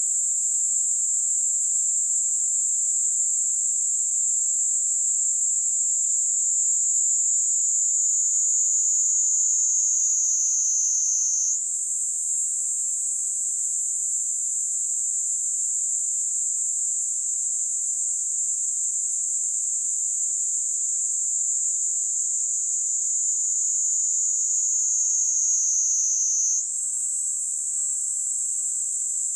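Kaempfer cicada (Platypleura kaempferi) singing a continuous high buzz. Its pitch slowly sinks, then jumps back up abruptly about twelve seconds in and again near the end.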